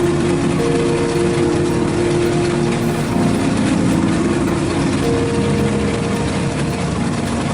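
Engine of a rail vehicle running steadily, a continuous drone with several held tones that shift slightly in pitch about three seconds in.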